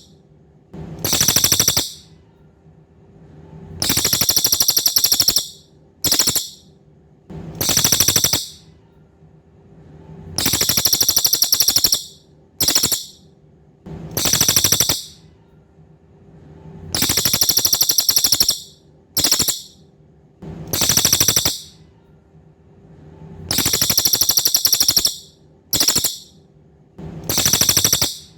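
Cililin songbird singing: loud, very high, rapid trills, each up to about a second and a half long, repeated every two to three seconds, with a faint steady hum beneath.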